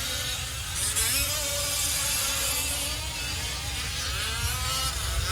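Several 1/5-scale gas-powered RC race trucks with small two-stroke engines, buzzing and revving together. Their pitches keep rising and falling as the trucks throttle on and off around the track.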